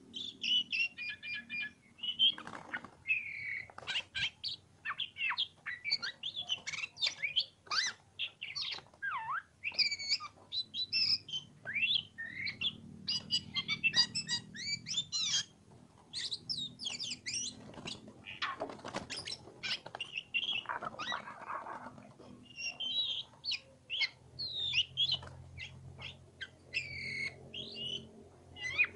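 Oriental magpie-robin (kacer) singing a long, varied song of rapid chirps, sweeping whistles and short trills, phrase after phrase with only brief gaps.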